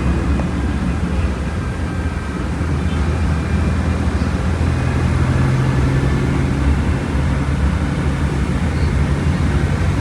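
Volkswagen Volksbus 17.230 Euro 6 bus engine running with the bus under way: a steady low drone whose pitch moves up a little about four to five seconds in.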